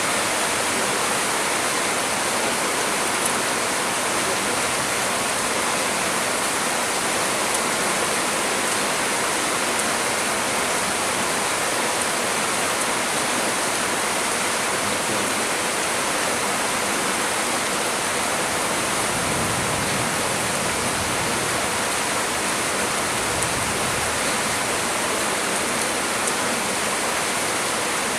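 Heavy rain pouring steadily, a dense even hiss of water with no letup.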